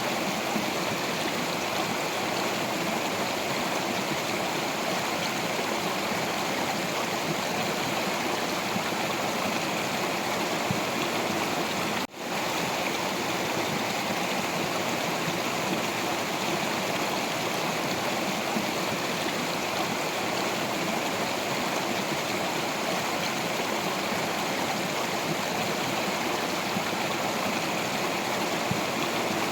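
Stream water flowing steadily over rocks: an even, continuous rush. It drops out for a split second about twelve seconds in.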